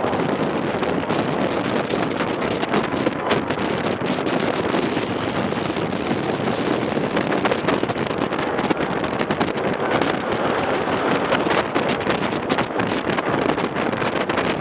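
Wind rushing hard over the microphone while a Millennium Force steel hypercoaster train runs along the track, its wheels rattling and clacking throughout.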